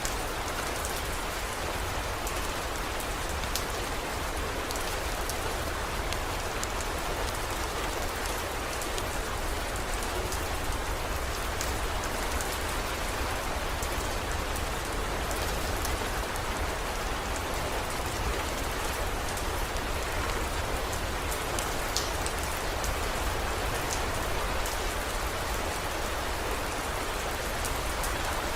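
Steady heavy rain, with scattered sharp drop ticks over a constant low rumble.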